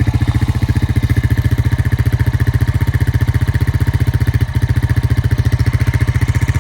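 2002 Honda Rancher ES ATV's single-cylinder four-stroke engine idling steadily with an even, rapid firing beat, running smoothly on a freshly cleaned carburetor after sitting for over 12 years.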